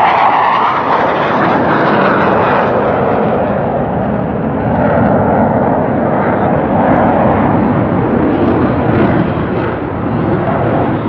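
Jet engine roar from Blue Angels F/A-18 Hornets flying overhead: a loud, steady rushing noise that swells and eases a little as they pass.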